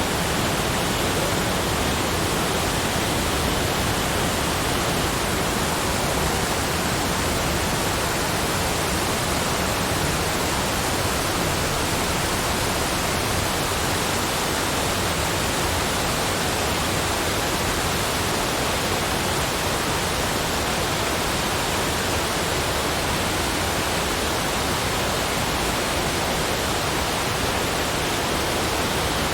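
Steady, unchanging rushing noise spread evenly across low and high pitches, with no separate events.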